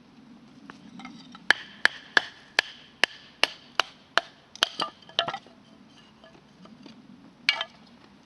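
A hammer striking about ten times in quick, even succession, each blow with a slight ring, then a few lighter knocks and one last blow near the end.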